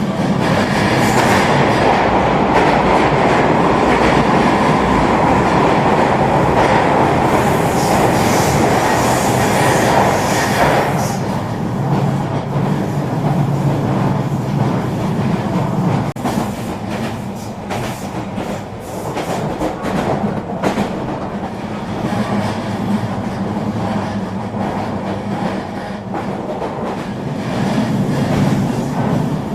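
Eurobahn RE3 regional train running on the rails with a steady rumble and rushing noise. It is louder for about the first ten seconds, then eases off, with a run of sharp clicks from the wheels and track in the middle, and grows louder again near the end.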